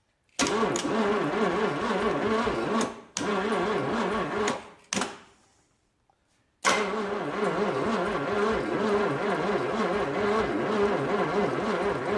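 1956 Chevrolet 265 small-block V8 turning over on its starter without firing, in rhythmic pulsing stretches: cranking starts under half a second in, stops briefly near three seconds, pauses near five seconds and resumes about six and a half seconds in. It cannot start because the distributor has no rotor button.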